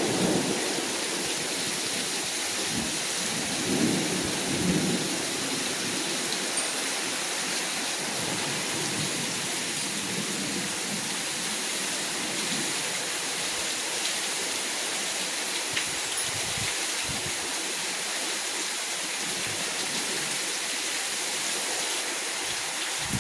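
Heavy storm rain falling steadily in strong, gusting wind. The storm noise swells briefly louder about four and five seconds in, then holds steady.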